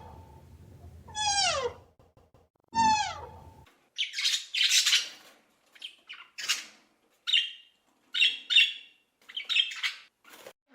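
Animal calls: two falling, wailing calls, then a run of short, harsh squawks and chirps, about a dozen, bunched together.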